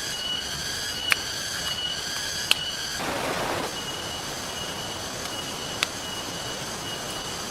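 A wood campfire giving three sharp pops over a steady hiss of rain and river. Behind them a high, pulsing whine repeats in short bursts throughout.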